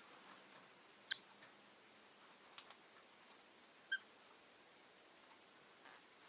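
Rosy-faced lovebird giving two short, sharp chirps about three seconds apart, with a faint click between them, against near silence.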